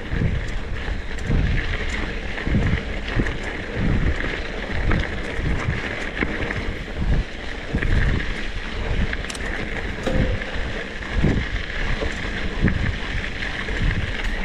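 Monkey bike ridden along, its small engine running steadily under heavy wind buffeting on the microphone.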